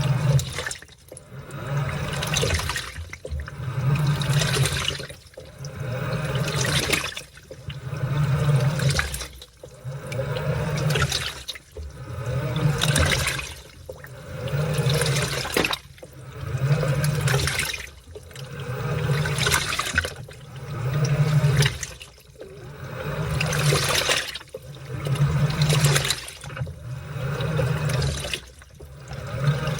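Washing machine washing a load of laundry in water: a swell of motor hum and sloshing water about every two seconds, dipping between each swell.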